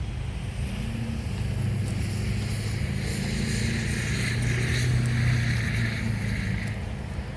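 Diesel-electric locomotive engine running with a steady low drone; a hissing rush grows louder through the middle and eases near the end.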